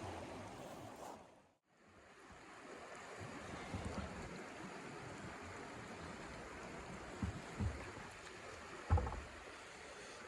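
Steady rushing wind of a snowstorm, cut off briefly about one and a half seconds in, with a few low thumps near the end, the last one the loudest.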